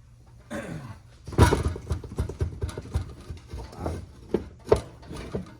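A run of irregular knocks on a Ford-O-Matic transmission part that is seized on its shaft, as it is worked to free it. The loudest knocks come about a second and a half in and again near the end.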